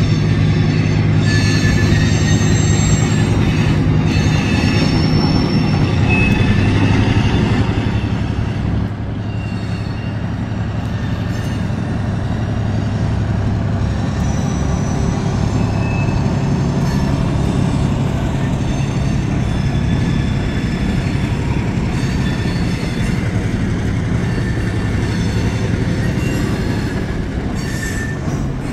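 Diesel switcher locomotive running at low speed with a steady low engine hum, while the freight cars behind it roll by with rail rumble and clatter and short, high wheel squeals on and off. The sound eases slightly about eight seconds in.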